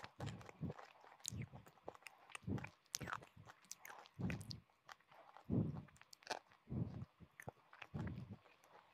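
Close-miked chewing of hard, brittle mineral pieces such as chalk or baked clay: steady chews about once a second, with sharp crunches and crackles between them.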